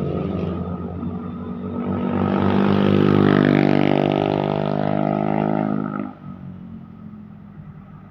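A heavy road vehicle passing close by: its engine drone swells about two seconds in and cuts off abruptly about six seconds in, leaving a quieter rumble of traffic.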